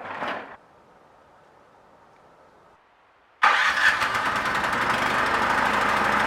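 An engine starts abruptly about three and a half seconds in and keeps running with a steady, even pulse after a short quiet spell.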